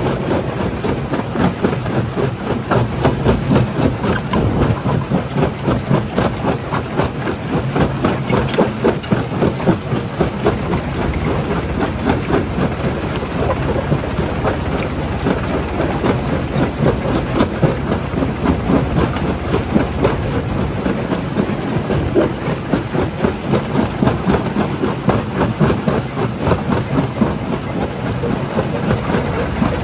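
Stone jaw crusher running under load: a steady heavy drone with a dense, irregular clatter and knocking of rock being broken and fed through.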